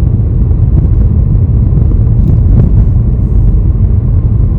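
Car driving along a lane: steady, loud low rumble of road and engine noise.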